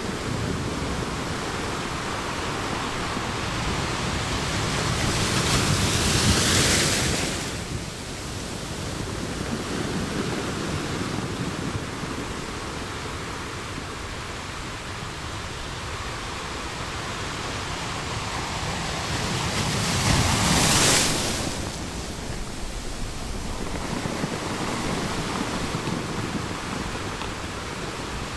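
Small waves breaking on the beach, a continuous wash of surf with two louder breaks, one about six seconds in and one about twenty seconds in.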